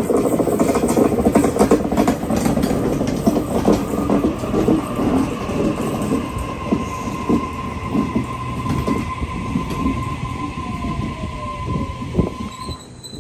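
Sydney Trains Waratah double-deck electric train pulling in along a sharply curved platform, wheels clattering over the rails with a steady high wheel squeal from the curve. A falling whine follows as it slows, and the squeal cuts off near the end as the train comes to a stand.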